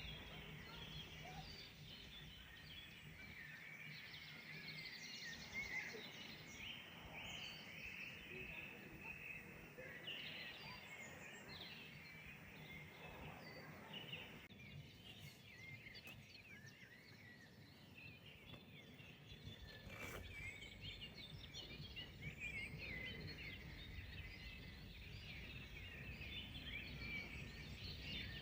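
Faint, scattered chirps and song of several small birds, over a low, steady outdoor background noise.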